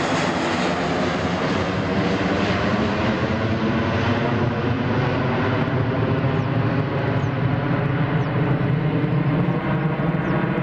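Airbus A320-233's twin IAE V2500 turbofan engines running loudly, a steady roar with a deep rumble underneath. The high hiss slowly dulls over the stretch as the aircraft moves away.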